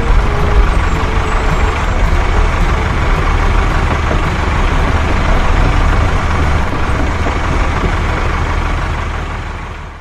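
A truck-like vehicle engine running steadily with a heavy low rumble, fading out near the end.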